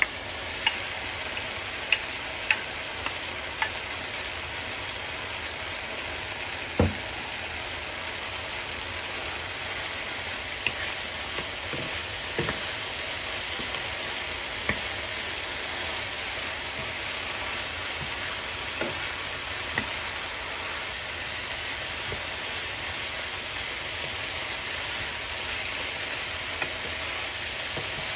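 Sliced bitter melon frying with tomatoes and onions in a nonstick pan: a steady sizzle, with scattered clicks and knocks as a wooden spatula stirs against the pan, the loudest a thump about seven seconds in.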